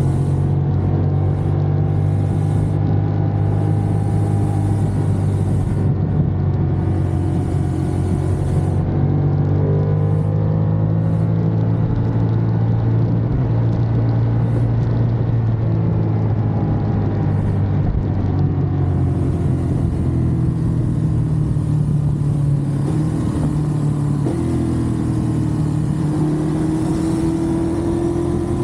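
Ducati Monster's L-twin engine running steadily under way, its revs easing down and climbing back a few times.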